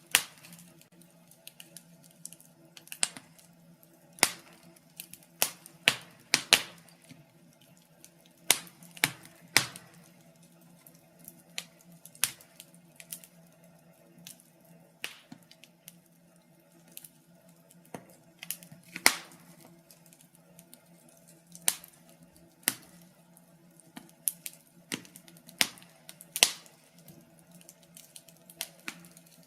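Wood fire crackling in a fireplace: irregular sharp pops and snaps, a loud one every second or two among many small crackles, over a faint steady low hum.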